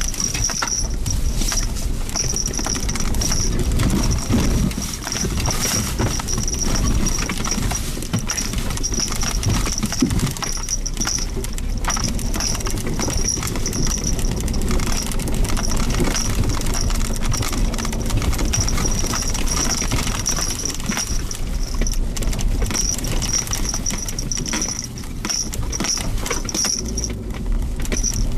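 Suzuki Jimny Sierra driving along a forest road: a steady low engine and road rumble with frequent small knocks and rattles, and a high thin tone that fades in and out.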